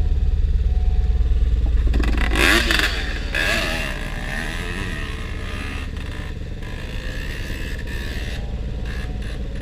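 Motorcycle engine running steadily, louder for the first few seconds and then settling lower. A voice is heard briefly about two to three seconds in.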